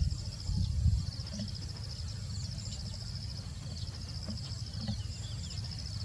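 Insects trilling steadily in a high, rapidly pulsing buzz. Low rumbles in the first second.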